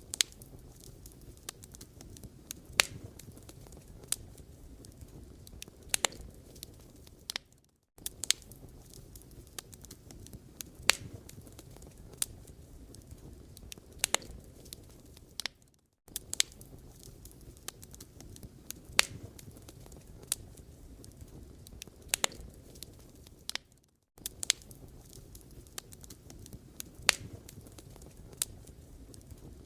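Wood fire burning, crackling with scattered sharp pops over a low steady rush. The sound drops out briefly about every eight seconds.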